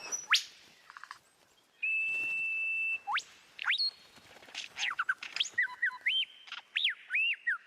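Superb lyrebird singing a medley of mimicked bird calls: a long steady whistle about two seconds in, then quick rising whistles and a fast run of short falling notes.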